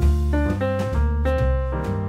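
Relaxing piano music with a light jazz feel: a melody of struck notes moving a few times a second over low, held bass notes.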